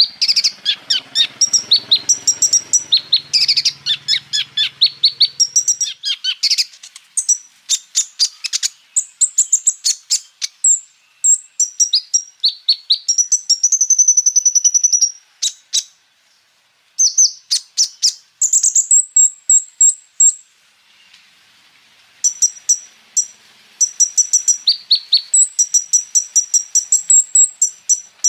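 A kolibri ninja sunbird sings a fast, high-pitched chattering song of sharp chirps and short trills, delivered in rapid runs. It falls briefly silent a little past halfway, then resumes.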